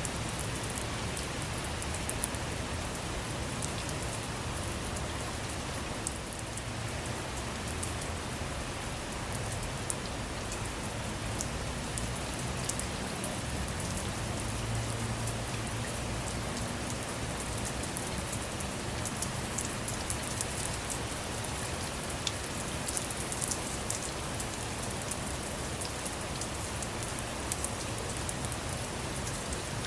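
Steady rain falling on a car, with many individual drops tapping sharply over the constant hiss, and a faint low rumble midway.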